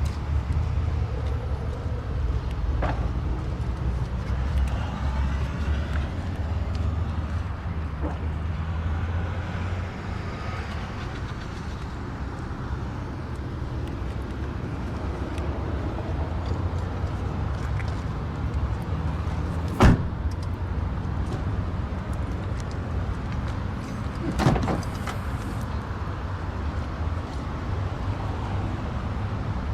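Steady low hum of a car at idle, heard from inside the cabin. There is a sharp click about 20 seconds in and another, softer click a few seconds later, typical of a seat-adjustment lever being worked.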